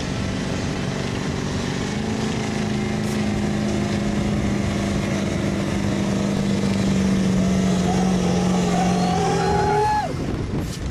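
Diesel pickup engine working hard under load during a truck pull. It holds a steady note, then climbs in pitch over the last few seconds before cutting off sharply about ten seconds in.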